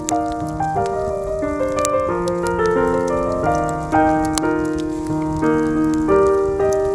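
Soft jazz piano playing a slow run of chords and melody notes, with scattered sharp pops and crackles from a wood campfire over it.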